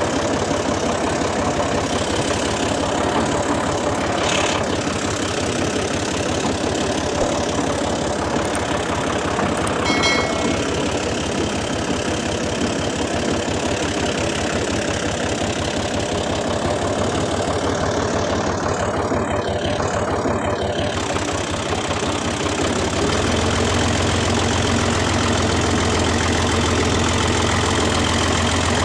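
Small electric motor of a DIY model tractor and chaff cutter running steadily with a fast rattling buzz. About twenty-three seconds in, the sound deepens and gets a little louder.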